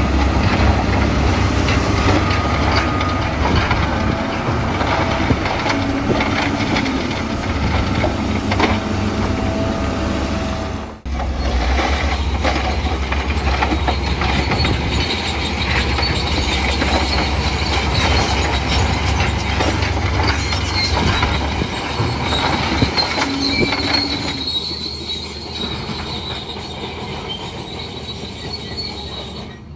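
Bulldozer's diesel engine running under load with its steel tracks clanking and squealing as it pushes mud. The sound breaks off briefly about eleven seconds in and grows quieter over the last few seconds.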